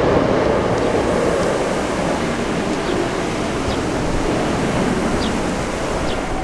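Hankyu electric train passing close by: a steady rush of wheel and running noise that slowly fades, with a few faint short squeaks.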